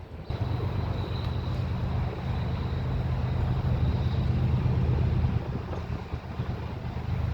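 Diesel freight locomotive running with a steady low engine drone that starts abruptly just after the beginning, with a faint high whine over the first few seconds.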